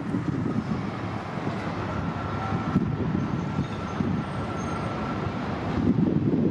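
Transit buses running at a bus terminal: a low, steady rumble, with a thin steady whine from about two seconds in that stops shortly before the end.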